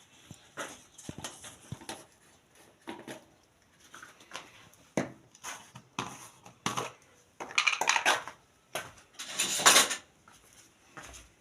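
Cooking utensils and dishes being handled: irregular short knocks and clinks, with two longer, louder scraping sounds in the second half.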